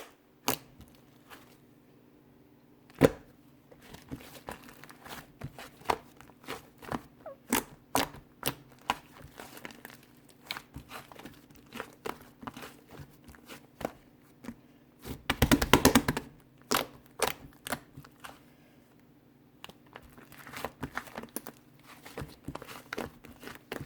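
Slime being squeezed, stretched and poked by hand, giving a string of sharp clicks, pops and crackles, with a dense burst of crackling about fifteen seconds in.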